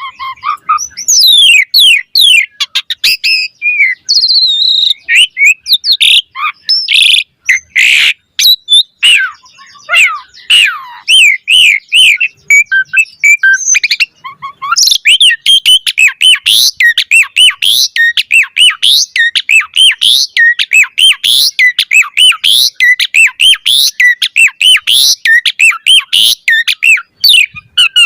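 Pied starling (jalak suren) singing a loud, fast, varied song of whistles, sweeping notes and sharp clicks; from about halfway it settles into a rapid run of short, repeated rising notes.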